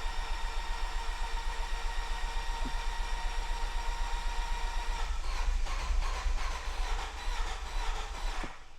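Starter cranking the Fiat 124 Spider's 1.4 MultiAir four-cylinder with the fuel injectors cut by the floored throttle, turning over with a fast, even beat and a whine. About five seconds in the beat turns uneven and louder as compression returns once oil pressure refills the MultiAir unit after the long sit, and the cranking stops near the end.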